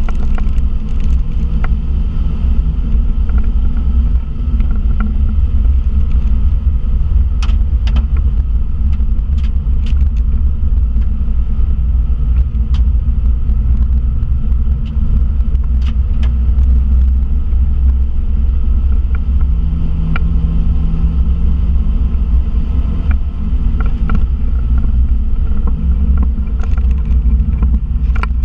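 VW Polo Mk2 (86c) engine running hard at lap speed, heard from inside the cabin as a heavy, steady rumble with its pitch shifting a little. Scattered short clicks and rattles sound over it.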